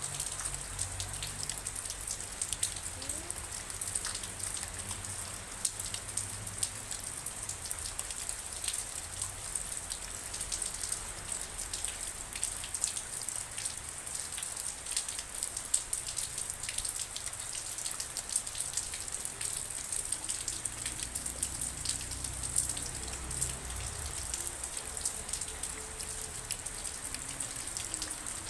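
Steady rain falling, with many separate drop hits heard throughout over an even hiss.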